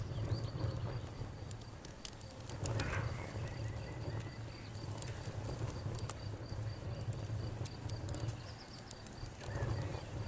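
Campfire crackling with scattered sharp pops over a low steady rumble. A cricket trills steadily in the background.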